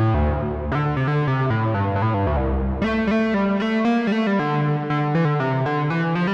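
Moog Messenger analog monophonic synthesizer playing a run of notes. About a second in, a held note's filter closes and its brightness fades over about two seconds; near the three-second mark a brighter, quicker run of notes begins.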